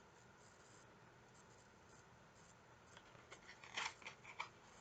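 Near silence, then a few faint, short rustles about three to four seconds in: a picture book's page being turned.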